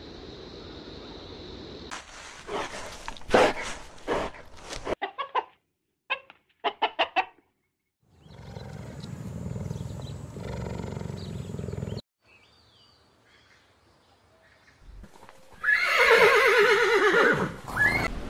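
A string of different animal calls cut one after another: a few loud calls, a quick run of short calls, a stretch of low rumbling noise, then near the end a long loud call falling in pitch.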